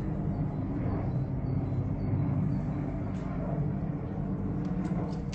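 Several helicopters flying, heard as a steady low drone of rotors and engines.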